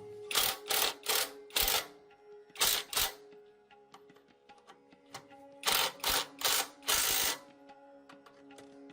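Background music over a run of short rasping strokes of a tool working on rusty tractor engine parts, coming in three groups of two to four strokes.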